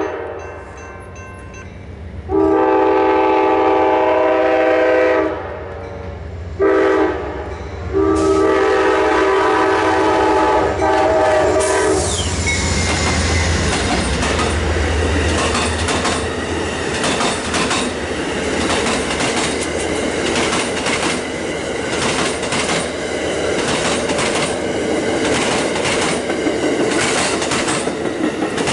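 Amtrak passenger train's locomotive horn blowing the crossing signal: a long blast, a short one and a final long one that ends as the locomotive reaches the crossing. Then the train passes close by, its wheels clicking steadily over the rail joints.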